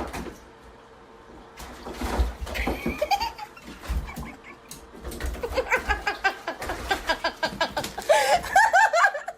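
A person laughing in quick repeated bursts, growing louder near the end, after a few seconds of scattered knocks and rustling.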